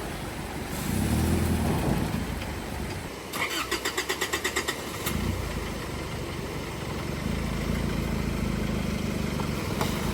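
A truck engine being started: the starter cranks with a rapid pulsing for about a second and a half, the engine catches, and then it settles into a steady low idle.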